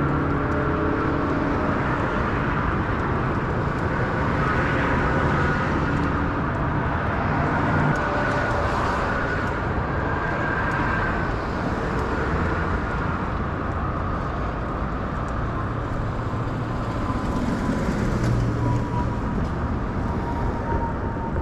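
Steady road and car traffic noise heard from a bicycle while riding. A faint tone drifts slowly downward near the end.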